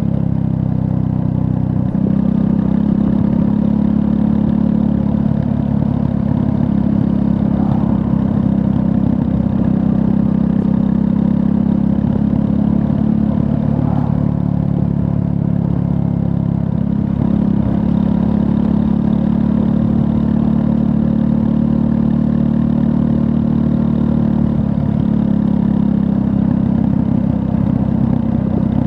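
Triumph Scrambler 400 X's 398 cc liquid-cooled single-cylinder engine running while the motorcycle is ridden, its pitch shifting slightly up and down a few times with the throttle.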